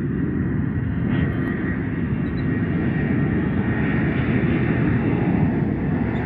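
Jet airliner engines: a steady rumble with a faint, steady high whine.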